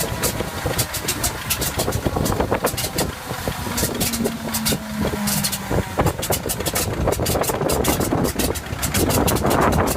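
Big old piston aircraft engine running unevenly after a cold start, its exhaust firing in quick, irregular pops over a steady rumble.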